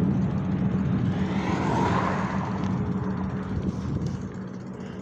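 Road traffic: a vehicle passes, swelling and fading about two seconds in, over steady road noise.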